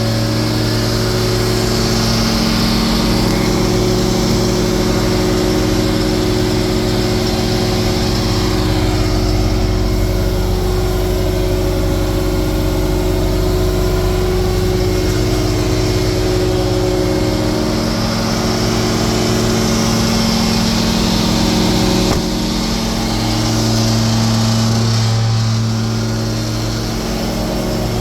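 Cummins diesel engine of a Freightliner M2 truck idling steadily.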